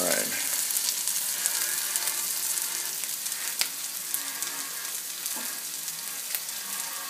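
Diced red potatoes, red onions and pancetta frying in olive oil in a skillet: a steady sizzle with scattered crackles and pops.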